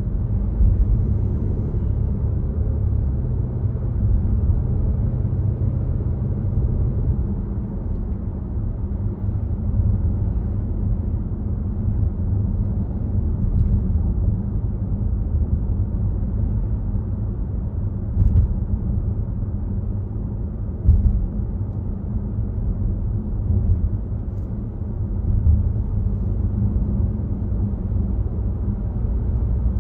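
Volvo XC60 driving at speed: a steady low rumble of tyre and road noise with the engine under it. Two short knocks stand out, about 18 seconds in and again about three seconds later, like the tyres hitting bumps in the road.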